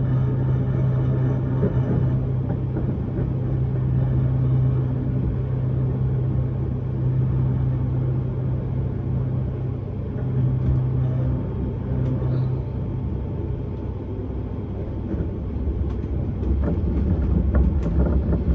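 Inside a moving S-Bahn commuter train: steady running rumble of the wheels on the track, with a low electric hum that fades out about twelve seconds in, and the rumble growing louder near the end.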